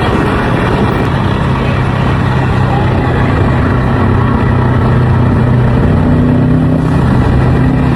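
Car engine running at a steady speed under way: a low, even drone with road noise.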